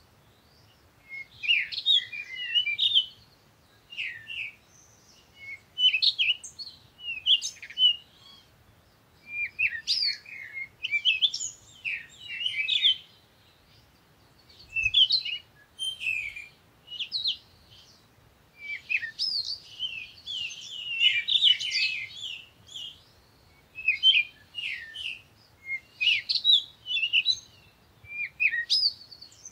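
Birds chirping: quick clusters of high twittering notes every second or two, busiest a little past the middle.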